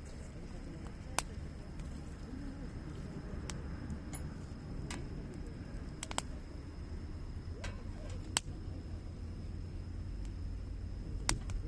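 Wood fire burning: a low steady rush of flames with sharp crackles and pops from the burning wood, scattered irregularly, several seconds apart at times and in quick pairs at others.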